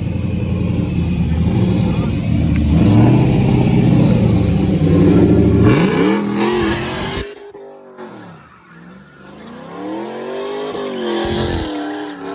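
A car engine running loud, then revved up and down several times from about halfway through, its pitch rising and falling with each blip.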